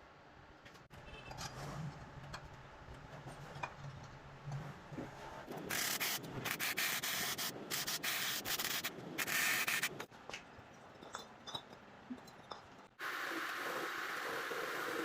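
Sanding: light scrapes and taps, then about five loud, rough abrasive strokes across a hard part. Near the end it cuts to a steady hiss.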